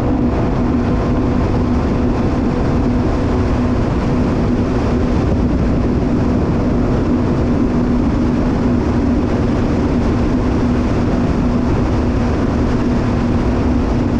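Jet ski engine running at a steady, unchanging pitch, as at constant throttle, over a loud steady rush of noise.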